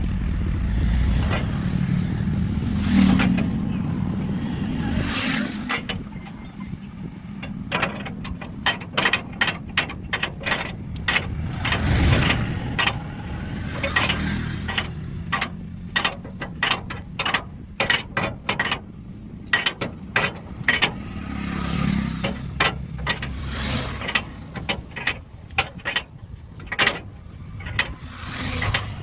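A low engine-like rumble for the first few seconds, then many quick, irregular, sharp metallic clicks and knocks of hand-tool work on metal, several a second.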